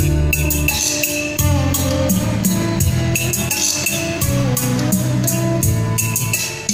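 Recorded music with drums, bass and guitar and a steady beat, played back through a Sony TA-V715 amplifier and its large loudspeakers with 23 cm woofers.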